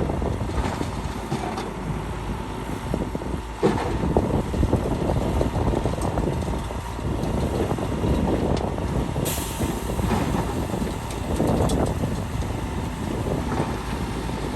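Heavy earthmoving machinery working: diesel engines of a bulldozer and dump trucks running steadily under load. There is a sharp knock near four seconds in and a short hiss about nine seconds in.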